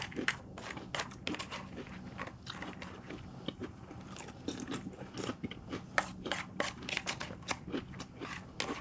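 A person eating crunchy cereal: an irregular run of crunches as spoonfuls are chewed, with a spoon scraping and clinking in the bowl between mouthfuls.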